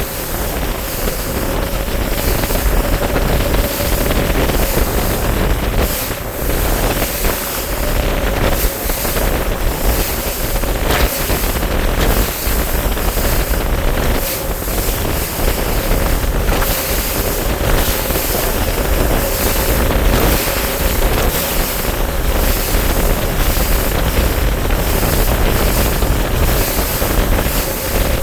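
Bass boat's motor running with a steady hum under heavy wind buffeting on the microphone, with water rushing past the hull.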